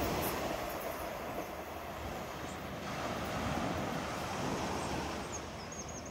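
Two-car diesel multiple unit running away along the line, its engine and wheels on the rails giving a steady rumble that fades into the distance, with surf and wind behind it.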